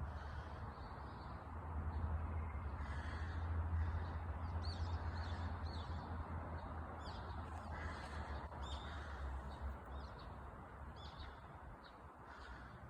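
Wild birds calling and chirping outdoors, with many short high chirps and a few fuller calls, over a steady background hiss and a low rumble that fades partway through.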